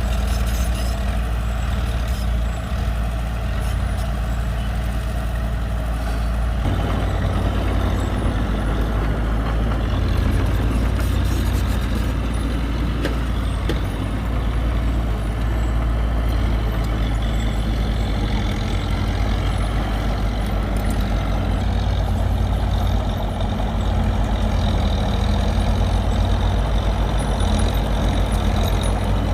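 Heavy diesel earthmoving machinery running steadily with a deep engine rumble that grows fuller and busier about seven seconds in.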